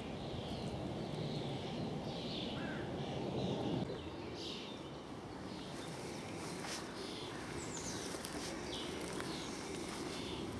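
Songbirds chirping and singing, short high calls repeating over and over. Under them a low rumbling noise runs for the first four seconds and cuts off suddenly. A few light clicks come in the second half.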